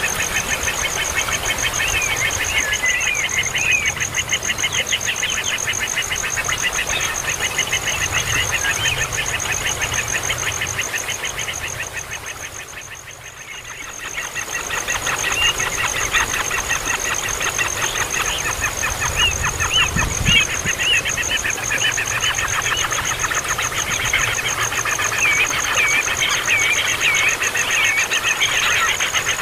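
Baby birds chirping and calling in a constant noisy chorus of quick, overlapping high cheeps, with a steady high-pitched whine behind them. The sound dips briefly about halfway through, then comes back.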